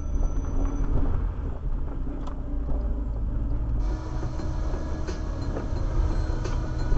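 Car driving, with a steady low rumble of engine and road noise heard from a dashcam. About four seconds in, a brighter hiss joins the rumble.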